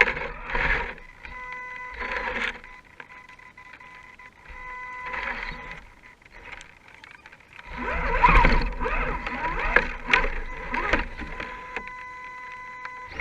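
Small electric motor of an RC rock crawler whining at a steady pitch in short runs, stopping and starting. It is joined by a louder, rougher stretch of noise a little past halfway.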